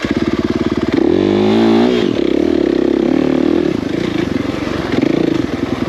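Dirt bike engine running at low revs with a steady, fast putter; it revs up and back down once between about one and two seconds in.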